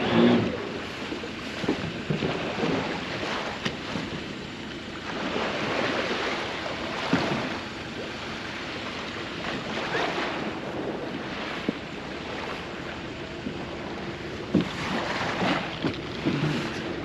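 Water washing and splashing against a small boat's hull, swelling every few seconds, with wind on the microphone and a few hard knocks.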